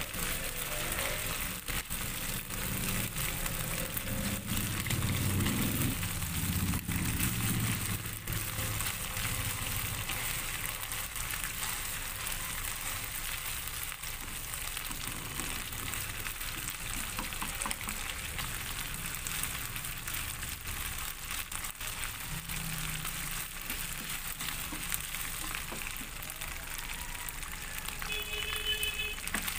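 Crumbled hamburger patty frying in hot oil in a small non-stick pan, sizzling and spattering steadily.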